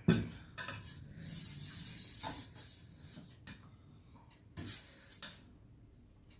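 Dishes and utensils knocking, clinking and scraping on a dining table as food is served. There is a sharp knock at the start, then scattered clinks through the first five seconds.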